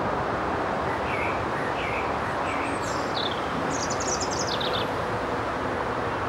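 Small birds calling over a steady rushing background noise: three short chirps a little over half a second apart, then a few higher notes and a rapid high trill about a second long.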